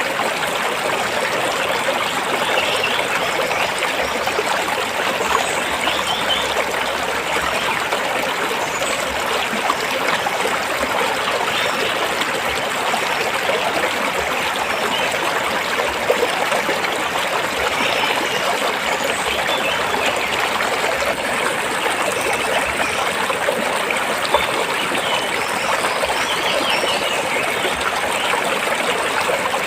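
Stream water flowing and splashing over rocks, a steady, unbroken rush.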